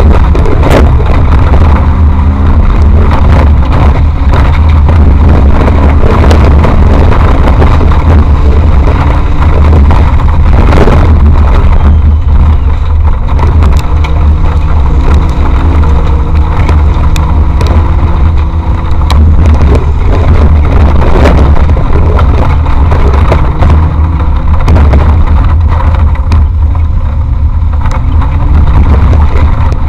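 Off-road vehicle engine running under load, its pitch rising and falling as the driver works the throttle over rough ground. A constant heavy low rumble runs under it, with scattered knocks and bangs from the vehicle jolting over bumps.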